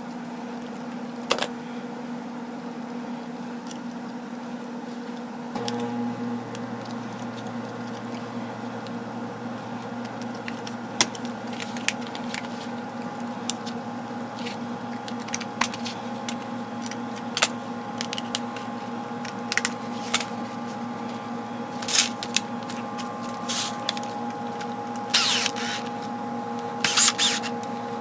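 Small clicks and short rattles of plastic and metal drill parts being handled and fitted, sparse at first and busier near the end, over a steady background hum.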